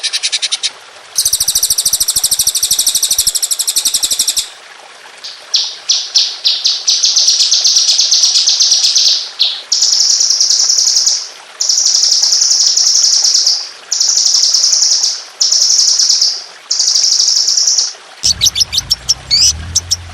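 Songbird song made of very rapid, high-pitched trills, the fast 'tembakan' rolls used in bird-song tutor recordings. It repeats in bursts about a second and a half long. Near the end it switches to quick rising and falling whistled notes over a low hum.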